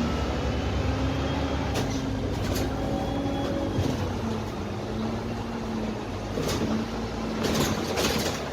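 Cabin noise inside a Dennis Trident double-decker bus: the Cummins ISMe diesel engine and Voith gearbox give a steady low rumble with a low hum that wavers in pitch. Short rattles from the body break in now and then, most of them near the end.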